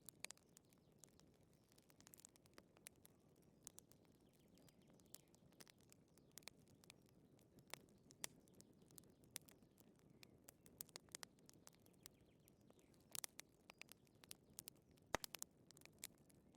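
Wood fire crackling faintly: irregular sharp pops and snaps over a low, soft rumble, with a small cluster of louder pops about thirteen to fifteen seconds in.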